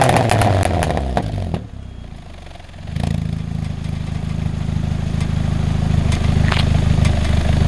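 Peugeot 206 CC with an aftermarket sport exhaust, its revs falling back after a blip with a few sharp pops, then a brief quieter lull before a steady low idle from the exhaust sets in about three seconds in.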